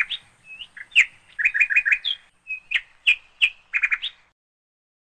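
Small birds chirping: a quick series of short, high chirps and brief whistled notes that cut off suddenly about four seconds in.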